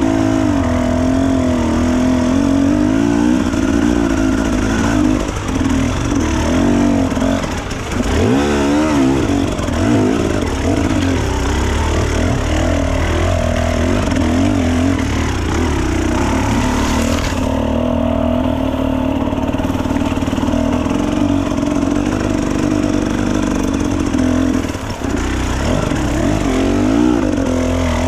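Enduro dirt bike engine running under way, its revs rising and falling again and again as it is ridden off-road.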